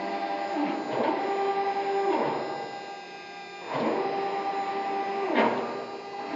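CNC wood router's axis drive motors moving the gantry on a test run, whining at a steady pitch between moves. Four times the whine sweeps down and back up as the axis slows, reverses and speeds up again.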